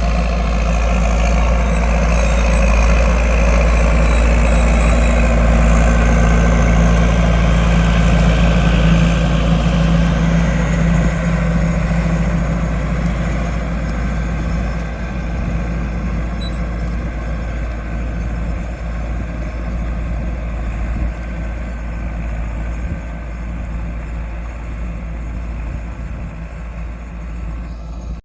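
Landini 9080 tractor's diesel engine running steadily under the load of a Vogel & Noot plough. It is loudest in the first half and grows gradually fainter over the second half.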